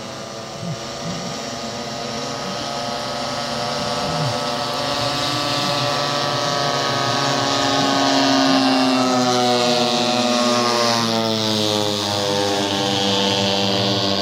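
Engine of a radio-controlled model Cessna flying past. It grows louder toward the middle, and its pitch rises, then drops between about ten and twelve seconds as it goes by.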